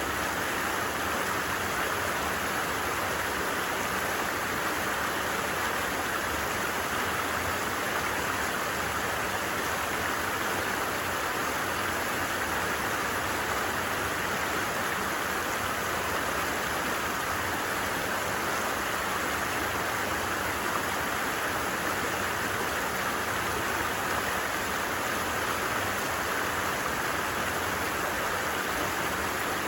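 A creek running steadily, an even rushing and babbling of water with no change in level.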